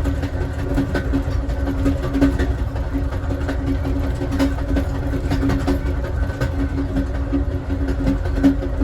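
Amtrak Southwest Chief passenger car rolling along the track, heard from inside the last car: a steady low rumble with a pulsing hum and scattered light clicks and knocks.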